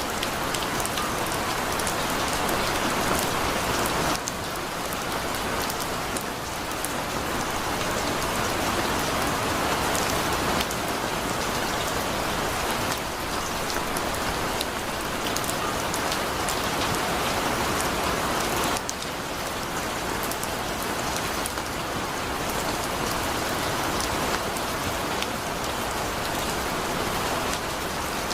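Heavy rain falling steadily, with a dense hiss and a patter of fine drops on a surface.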